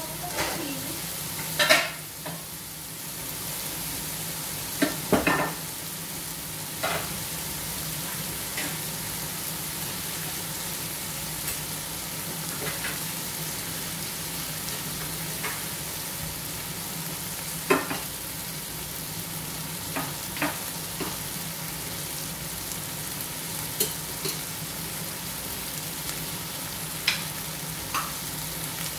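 Chicken pieces with tomato and onion sizzling as they sauté in an aluminium pot: a steady frying hiss with a few sharp clicks scattered through it.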